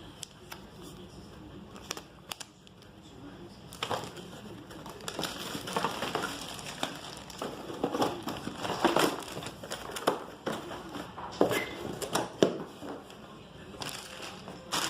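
Packaging being handled: plastic and paper crinkling and rustling, with irregular clicks and knocks that get busier after the first few seconds.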